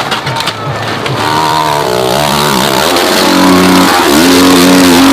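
Dirt bike engine revving hard on a hill climb: its pitch climbs from about a second in, dips briefly, then holds high near the end.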